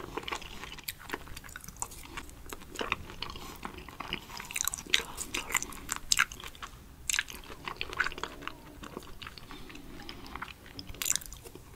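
Close-miked chewing of raw sweet shrimp, a dense irregular run of wet clicks and smacks.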